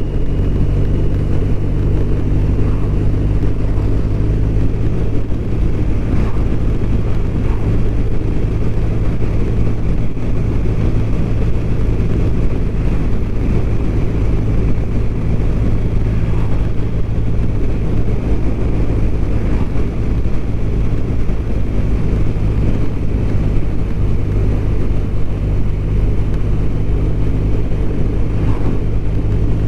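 BMW R1200RT's boxer-twin engine running at a steady cruise, its note holding level throughout, over a constant low rush of riding noise.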